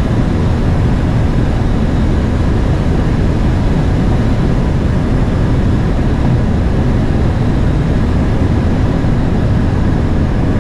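Steady cockpit noise of an aircraft during a landing: a loud, even rumble and rush, heaviest in the low end, with no change in level.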